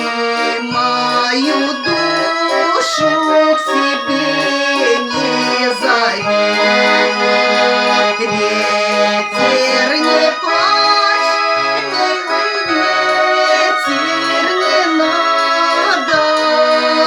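Garmon (Russian button accordion) playing an instrumental passage of the song: a reedy melody in the right hand over short bass-and-chord notes that recur steadily in the left hand.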